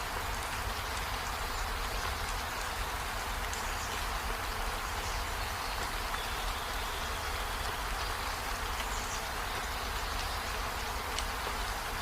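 Steady rain falling, an even hiss without breaks, with faint high insect-like chirps above it.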